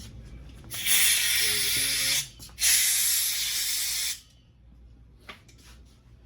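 Compressed-air blow gun blasting twice in long hissing bursts, forcing air in to work a stuck part loose.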